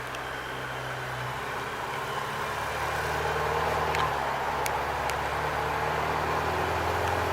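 A car engine running steadily at low revs, its note shifting slightly and growing louder about two and a half seconds in, with a few faint clicks.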